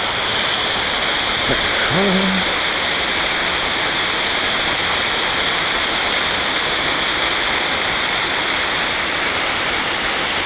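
Steady rush of water falling and running over the rocks of a creek waterfall. A short voiced sound from a person cuts in briefly about two seconds in.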